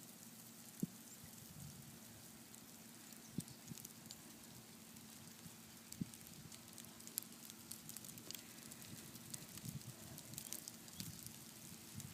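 Faint patter of light falling precipitation, snow mixed with small ice pellets, with scattered tiny ticks and a few soft low thumps about one, three and a half, and six seconds in.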